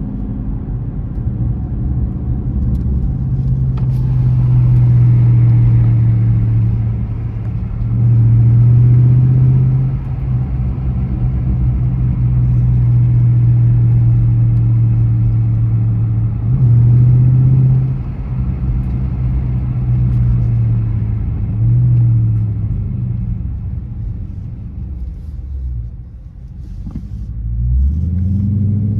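2020 Dodge Charger R/T's 5.7-litre Hemi V8, its mid mufflers cut out, heard from inside the car with the window cracked as it is driven. The engine note swells and falls back in several pulls, eases off shortly before the end, then climbs again in a rising rev.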